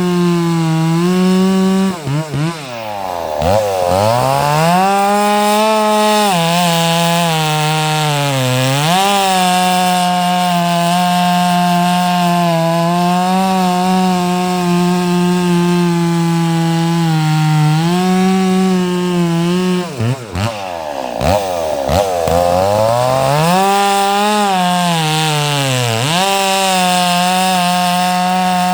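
Stihl 064 two-stroke chainsaw running at high revs, cutting wood. Its engine note drops sharply and climbs back twice, about three seconds in and again about twenty seconds in.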